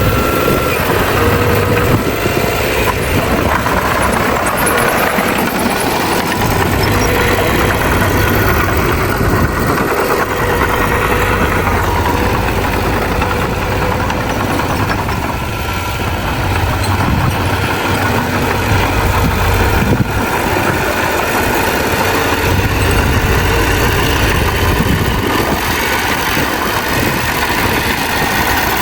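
Heavy diesel engine of earthmoving machinery running steadily with a strong low rumble, dipping slightly about halfway through.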